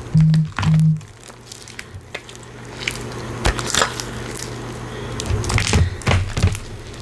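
Slime being handled, giving scattered crackles and clicks over a faint steady hum. Two short, loud, low tones come in the first second.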